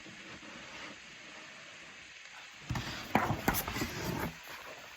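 A paper page of a picture book being turned: a rustle and crinkle of paper lasting about a second and a half, starting just past the middle.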